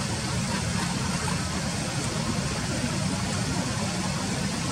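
Steady low rumble with a hiss, constant throughout, with no distinct calls, clicks or knocks.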